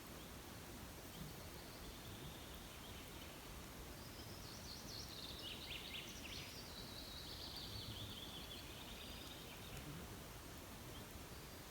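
A small bird sings a rapid run of high chirping notes for about five seconds, starting a few seconds in, over a faint steady hiss of outdoor background noise.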